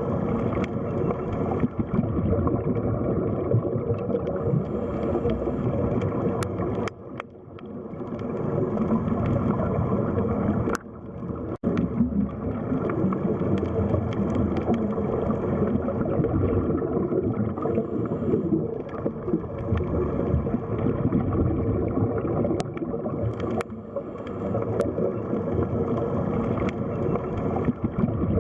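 Underwater sea ambience: a dense low wash and gurgle of water. It drops away briefly about seven and about eleven seconds in.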